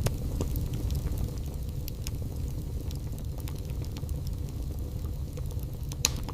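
Wood fire burning in a fireplace: a low steady rumble of the flames with scattered sharp crackles and pops, a loud pop at the very start and another just before the end.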